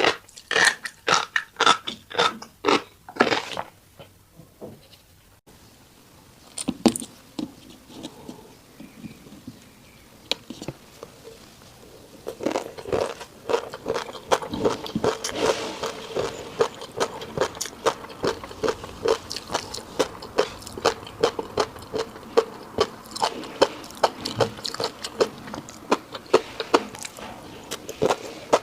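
Chewing a mouthful of fish roe and rice, in quick, crisp crunching clicks. It falls quiet after about four seconds, then from about twelve seconds in turns into steady, rapid, wet chewing.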